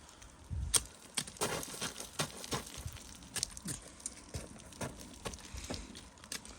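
A hiker's footsteps on the trail: an uneven run of steps, roughly two a second.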